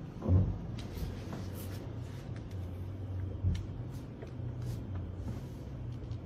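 Car engine running at low speed, heard from inside the cabin as a steady low hum, with a thump about half a second in, another a little past the middle, and a few light clicks.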